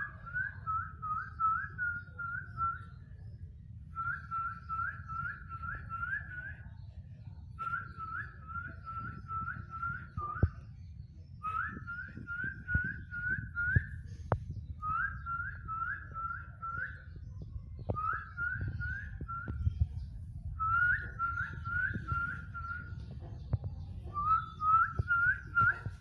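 A bird repeating a short phrase of about six quick whistled notes, eight times, every three to four seconds, over a steady low rumble.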